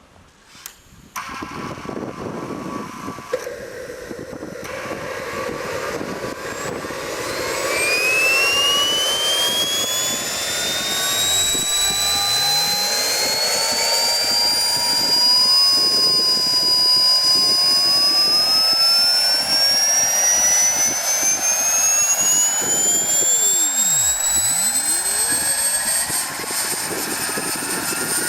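WREN model gas turbine of a quarter-scale Lama helicopter starting up: it kicks in suddenly about a second in, then spools up with a whine that climbs steadily in pitch and grows louder.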